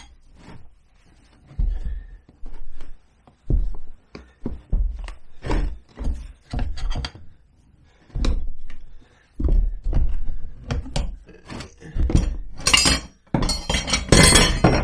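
Tire spoons prying a scooter tire's bead over the wheel rim by hand: a string of irregular thunks and knocks, with a denser stretch of scraping near the end.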